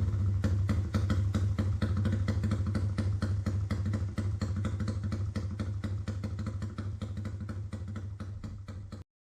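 Motorcycle fitted with an aftermarket racing exhaust, running at a steady idle with a fast, even putter from the pipe. The sound fades gradually and cuts off suddenly near the end.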